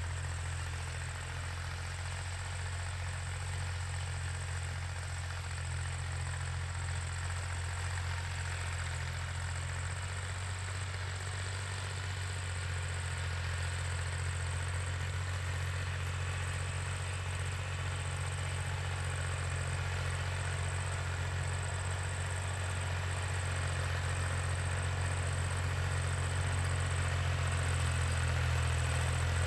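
Tractor engine running steadily with a low, even hum, slowly getting louder.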